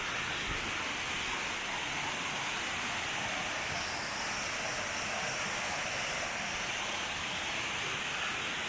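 Steady rushing of a waterfall and fast creek water, an even hiss that holds at the same level throughout.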